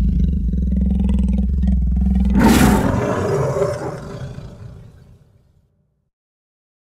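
A big cat's roar used as a sound effect: it starts suddenly as a deep, steady rumble, peaks about two and a half seconds in, then fades out over the next few seconds.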